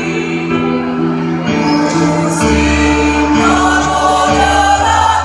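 A choir singing in several parts, holding sustained chords that change every second or so.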